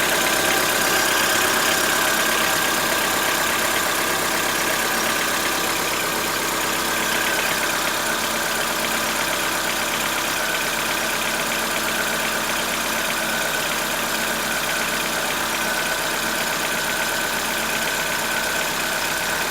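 Chevrolet Onix 1.4 four-cylinder engine idling steadily shortly after a cold start, with a continuous diesel-like clatter from inside the engine, not from the injectors; the owner takes it for lifter (tappet) knock or another internal part knocking.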